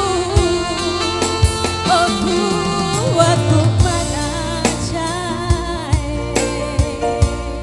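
Live band music with a singing voice over a steady drum beat and bass.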